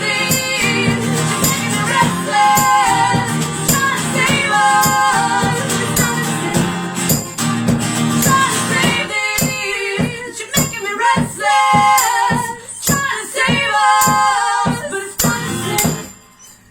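A live acoustic song with sung vocal lines over strummed guitar. About nine seconds in, the accompaniment thins to sharp, evenly spaced strums under the voice, and the song ends just before the end.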